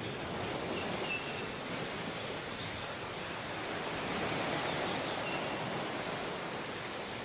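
Sea surf washing on a tropical beach: a steady wash of waves that swells gently, with a few faint high chirps.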